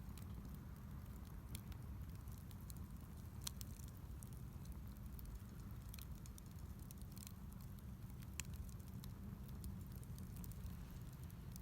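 Wood fire burning in a fire-pit stand, crackling with irregular sharp pops and ticks over a steady low rumble.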